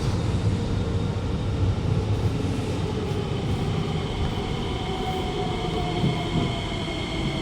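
Alstom Movia R151 metro train heard from inside the carriage, its wheels rumbling on the track. About three seconds in, a steady whine from the traction motors comes in as the train slows on its approach to the station.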